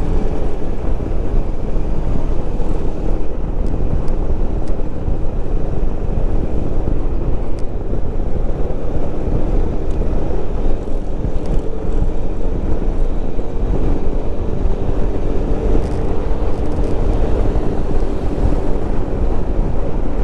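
Wind rumbling over a helmet-mounted microphone on a moving motorcycle, with the engine's steady drone underneath and a few faint clicks.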